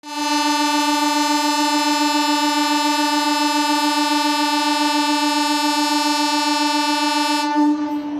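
Train horn sounding one long, steady, loud note. Its higher tones fade out about seven and a half seconds in.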